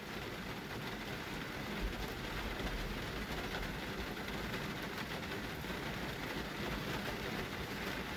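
Heavy rain with water pouring off a roof drain, a steady even hiss and splash, with a low rumble underneath.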